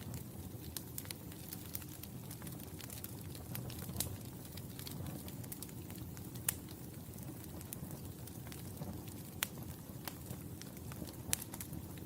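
Wood fire burning in a fireplace: a steady low rumble of flames with scattered sharp crackles and pops, the loudest pop about six and a half seconds in.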